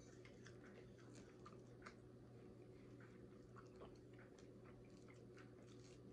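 Close-miked chewing and biting of crunchy fried chicken: soft, irregular mouth clicks and small crackles, faint throughout.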